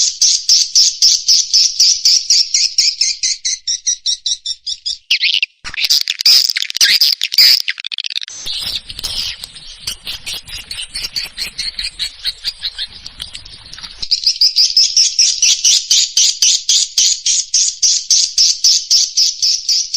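Swiftlet lure recording: a rapid, even train of high chirps from swiftlets, about five a second. A little after five seconds it drops out briefly and gives way to a busier, more mixed chirping with a faint low rumble under it, before the even chirp train returns about fourteen seconds in.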